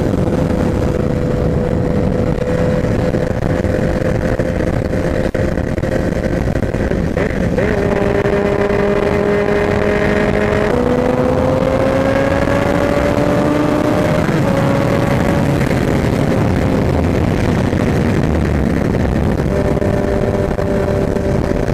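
Sport motorcycle, a Honda CBR1000RR inline-four, running at highway speed under heavy wind rush on the helmet microphone; the engine tone holds steady, then jumps to a new pitch several times as the throttle and gears change.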